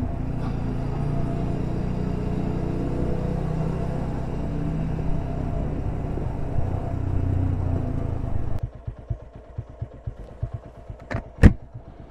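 TVS Apache 200 4V's single-cylinder engine running under way, with wind and road noise. About three-quarters through, the sound drops abruptly to the engine's even pulsing beat at low revs, and there is a sharp click near the end.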